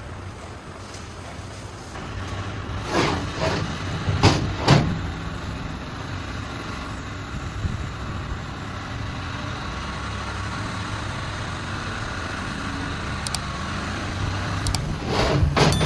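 A motor vehicle engine running steadily, with a few sharp knocks a few seconds in and a louder clatter near the end.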